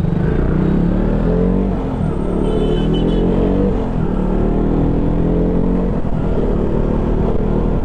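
KTM Duke 200's single-cylinder engine running while riding in slow traffic, its pitch rising and falling several times as the throttle is opened and closed.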